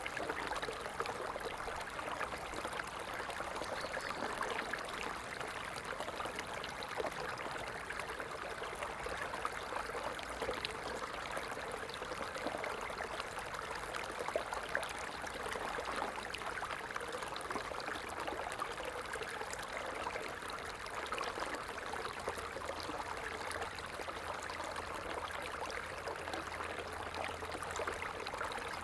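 Stream flowing: a steady rush of running water full of fine splashing ticks.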